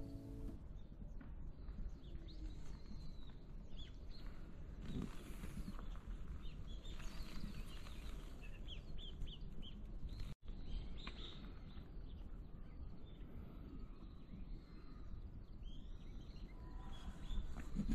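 Small birds chirping and calling in short notes over a steady low outdoor rumble, with a sudden brief dropout about ten seconds in.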